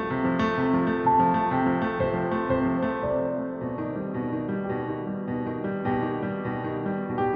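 Background music: gentle piano playing a slow sequence of sustained notes.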